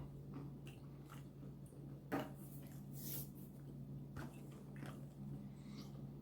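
A person chewing a crunchy granola bar, with small wet mouth clicks and a brief murmur about two seconds in, over a steady low hum.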